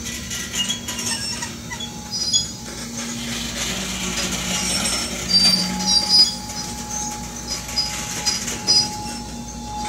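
Loaded coal hopper cars rolling slowly past under braking as the train slows to a stop, steel wheels and brakes giving high, scattered squeaks over a steady rumble. A steady squeal sets in about halfway through.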